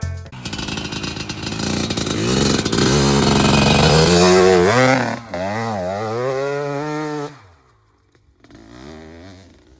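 Gas Gas EC 300 two-stroke dirt bike engine running and being revved, its pitch swinging up and down with the throttle, then cutting off suddenly about seven seconds in; a fainter burst of engine sound follows near the end.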